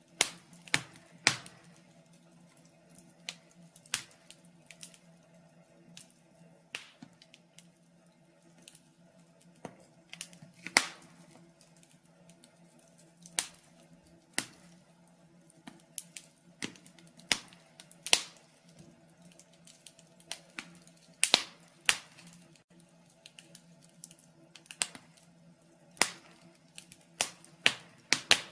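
Wood fire in a fireplace crackling: irregular sharp pops and snaps, a few of them loud, over a faint steady low hum.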